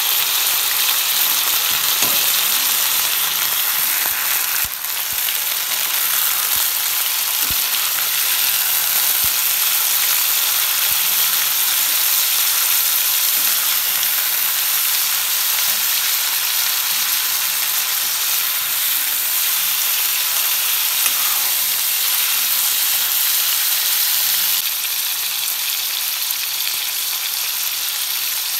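Whole frogs and garlic frying in hot oil in a metal wok: a steady high sizzling hiss, with a few faint clicks as a metal spatula stirs them. The sizzle eases slightly near the end.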